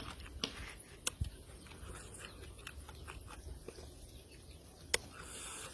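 Close-miked eating sounds from a man eating raw fish with papaya salad: wet mouth clicks and smacks while chewing, with one sharper click about five seconds in.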